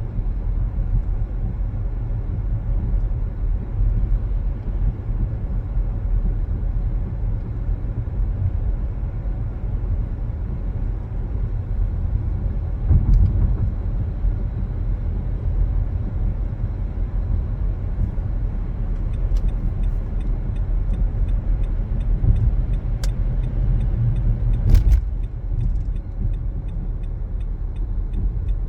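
Car driving on a road: a steady low rumble of engine and tyres. A few light clicks break through, and a faint regular ticking starts a little past the middle.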